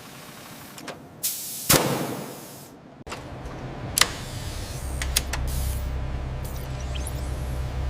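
Machinery sounds: a short hiss and a few sharp clicks, then a steady low machine hum that starts about three seconds in and grows louder near five seconds.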